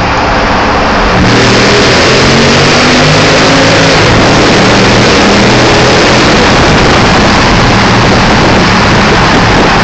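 Exhaust of a Brabus-tuned car accelerating hard in a tunnel. It gets much louder about a second in, the engine note climbs over the next few seconds, then stays loud and steady.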